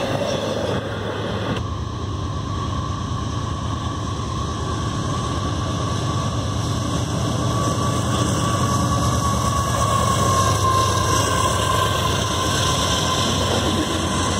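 Diesel-hauled double-stack freight train at a grade crossing: a steady low rumble that builds as the locomotive draws near and the stack cars roll past. A steady high tone runs above the rumble and dips slightly in pitch near the end.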